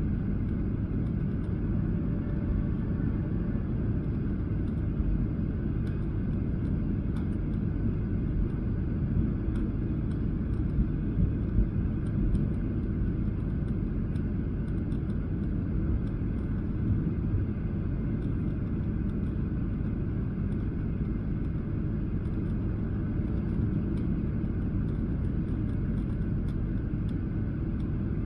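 Steady cabin rumble of a Boeing 737-800 airliner in flight: engine and airflow noise with a few faint ticks.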